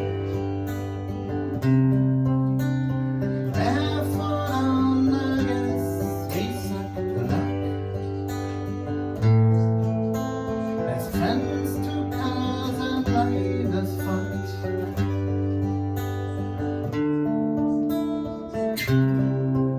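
A band playing an instrumental passage live, led by strummed guitars over bass notes that change every couple of seconds, with sharp percussive hits and a few sliding notes.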